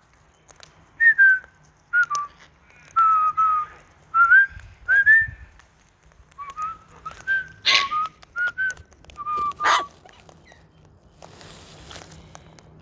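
A series of short, clear whistled notes with small rising and falling slides, given in quick phrases with brief gaps, and two harsher, noisier sounds mixed in about two-thirds of the way through.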